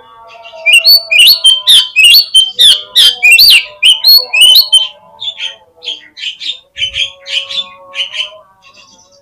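Oriental magpie-robin (kacer) song: a loud run of sharp whistled notes that swoop up and down in pitch, about two or three a second, then a softer run of shorter notes for the last few seconds. Faint steady tones sound underneath.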